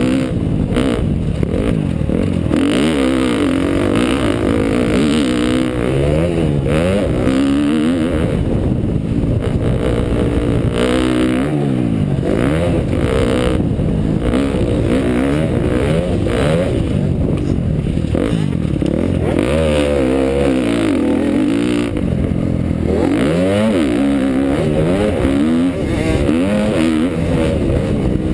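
KTM dirt bike's engine revving hard, its pitch climbing and dropping over and over as the throttle is opened and shut and the gears change.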